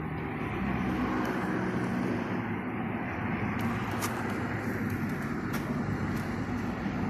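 Opel Astra F car engine running steadily after starting, with a few faint clicks in the second half.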